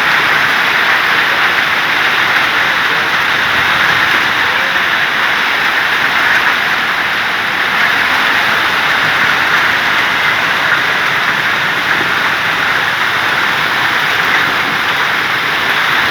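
Torrential rain pouring down in a loud, steady, even hiss.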